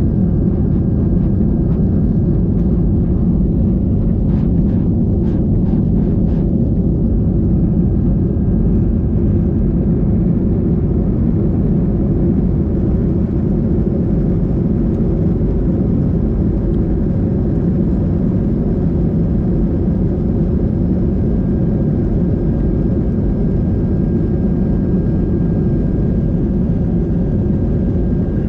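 Steady low rumble of a moving vehicle heard from inside its cabin, with a short run of faint ticks about four seconds in.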